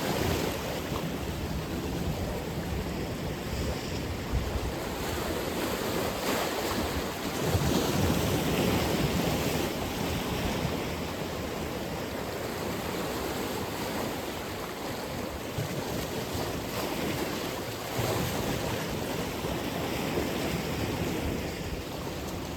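Atlantic Ocean surf: waves breaking and washing in a continuous rush. A louder surge of a breaking wave comes about a third of the way in.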